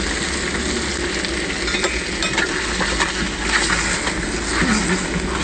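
Seafood sizzling and frying in a metal wok over an open fire, a steady hiss with a few light clicks scattered through it.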